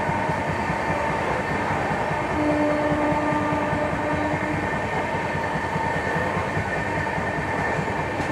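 A moving passenger train's running noise, heard close to the side of its coach: a steady rumble of wheels on rail. A steady tone sounds for about two seconds, a couple of seconds in.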